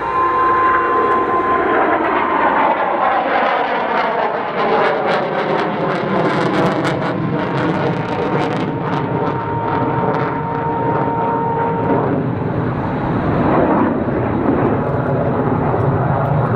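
Jet aircraft flying past, a loud steady engine roar sweeping down in pitch over the first few seconds, with a steady whine held through it.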